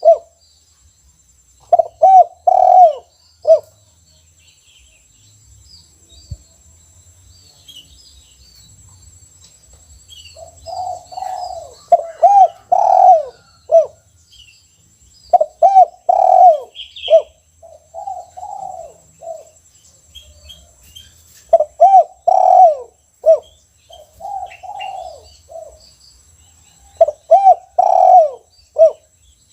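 Caged spotted dove (tekukur) cooing its song phrase over and over, about five phrases of several notes each with short pauses between. This is the 'kuk 1' song type, ending on a single 'kuk'. Faint chirps of small birds sound in the background.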